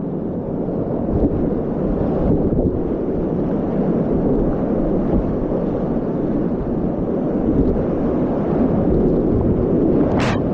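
Whitewater rapids rushing loudly and steadily around a kayak on a steep, continuous Class 4 river, with a brief sharp high sound near the end.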